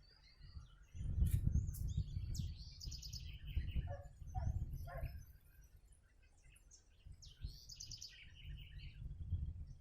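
A bird sings the same short phrase twice, a quick run of high notes that drops lower, about two and a half seconds in and again about five seconds later, over an intermittent low rumble.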